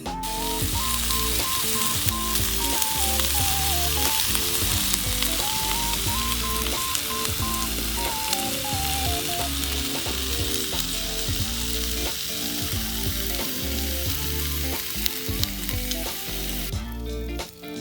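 Food sizzling in a hot pan, a steady hiss with small pops, that stops about a second before the end. Background music with a melody and bass runs underneath.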